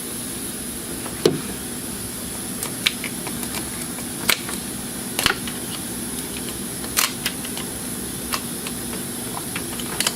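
Scattered sharp clicks and knocks, about seven in ten seconds, of hands working coolant hoses and connector fittings in an engine bay, over a steady low hum.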